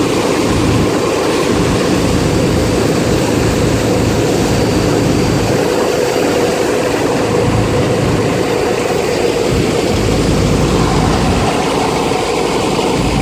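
A ferry's engine running loudly and steadily, with a constant hum.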